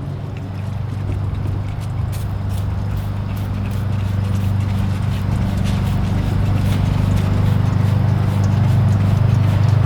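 A trigger spray bottle squirting degreaser again and again in quick succession, over a steady low mechanical hum that slowly grows louder.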